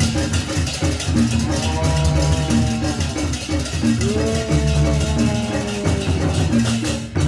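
Live Javanese barong dance music: a dense, steady drum and percussion rhythm under long held melody notes that waver slightly.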